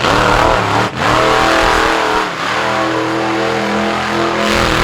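Monster truck engine running at high revs under hard acceleration. The pitch drops briefly about a second in and again just past two seconds, then holds high and steady.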